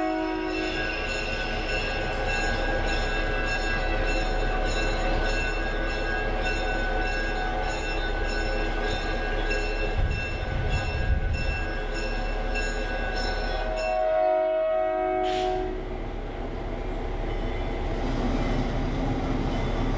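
Diesel locomotive's air horn sounding a chord, heard from a caboose riding behind the train. One blast ends about a second in and a second strong blast comes about 14 seconds in. Steady train running noise lies underneath, with a louder rumble around 10 seconds in.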